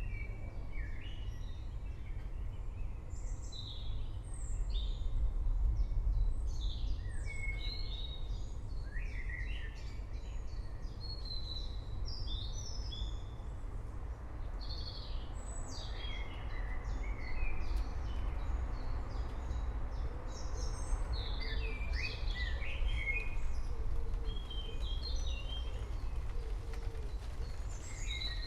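Forest birds chirping and singing, many short calls and trills overlapping, over a steady low background rumble.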